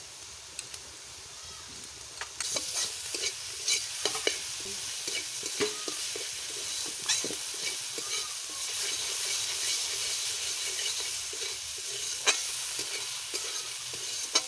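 Onion-and-chilli spice paste frying in oil in a wok, sizzling steadily while a metal spatula stirs and scrapes it against the pan. The paste is being sautéed until cooked through. The sizzle grows louder about two seconds in, with scattered sharp clicks of the spatula on the metal.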